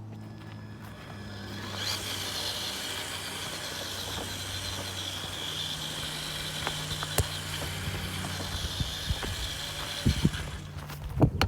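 Traxxas TRX-4 RC crawler's electric motor and gear drivetrain whining steadily as the truck drives. The whine starts about two seconds in and stops near the end, followed by a few knocks.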